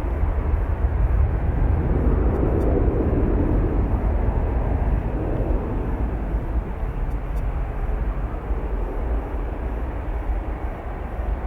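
Jet airliner engines rumbling, swelling about two to three seconds in and then slowly fading away.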